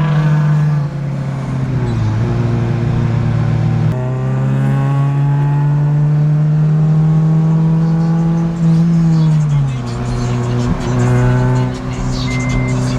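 A car engine pulling under load, its note rising and falling with engine speed: it drops about two seconds in, jumps back up at four seconds, climbs slowly for several seconds and falls again near the ten-second mark, over steady road noise.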